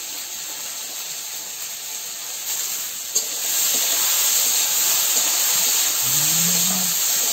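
Chopped potato frying in oil in a steel kadai, a steady sizzle that grows louder about three seconds in, with a single click as the spatula stirs.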